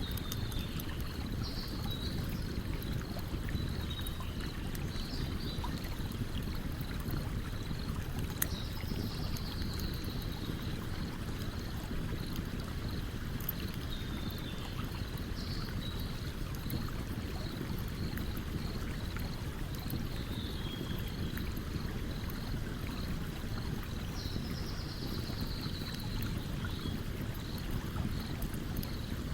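A stream running steadily, with a campfire crackling in scattered sharp pops. A short, high falling call recurs every few seconds.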